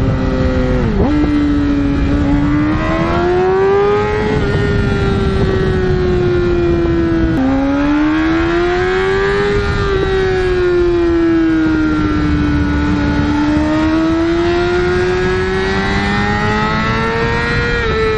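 Yamaha R6's inline-four engine breathing through an Akrapovic full exhaust, running at high revs. Its high pitch rises and falls slowly, with a sudden drop about seven seconds in, like a gear change.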